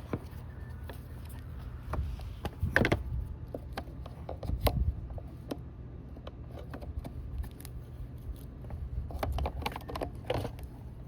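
Scattered clicks and clatter of a jump starter's metal clamps being handled and clipped onto a dirt bike's battery terminals.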